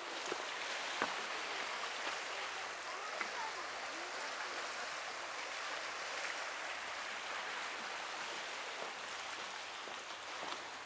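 Steady wash of harbour water against shoreline rocks, with a few light clicks over it.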